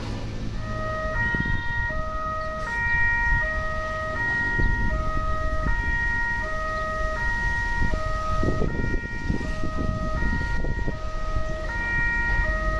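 Electronic warning alarm of a railway level crossing, sounding a short melody of stepped electronic tones that repeats over and over. A low rumble runs underneath and swells about two-thirds of the way through.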